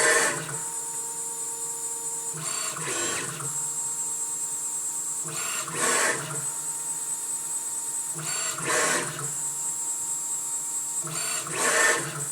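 CNC machine's axis drive motors running through test moves, a steady high whine with a louder swell about every three seconds as an axis travels.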